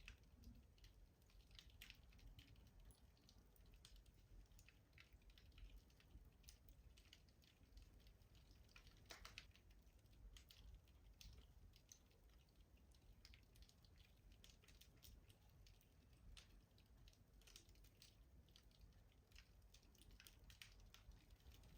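Wood fire crackling in a rustic stove: faint, irregular small snaps and pops over a low rumble.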